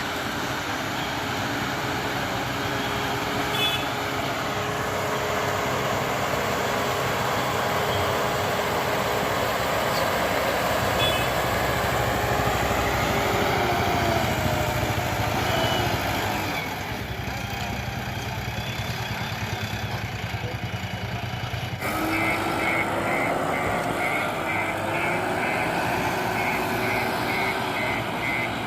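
Diesel engine of a JCB backhoe loader running under working load, its pitch rising and falling as it works. About three-quarters of the way through, a reversing alarm starts beeping at an even pace.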